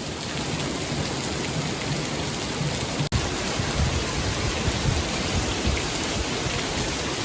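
Torrential rain pouring down, a steady dense hiss of the downpour, with low rumbles from about three to six seconds in. The sound cuts out for an instant about three seconds in.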